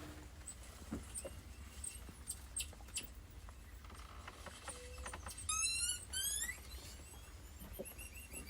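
Two short, high, squeaky animal calls rising in pitch about halfway through, over a low steady hum and scattered light clicks.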